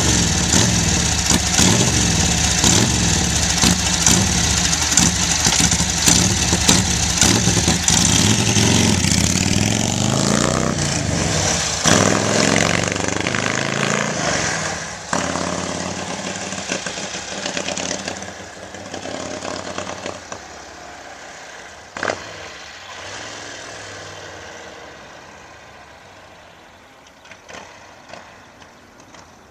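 The 45 cubic inch flathead V-twin of a 1946 Harley-Davidson WR flat tracker, freshly built and barely run, fires up and runs loud with the throttle blipped. Over the second half it fades away steadily.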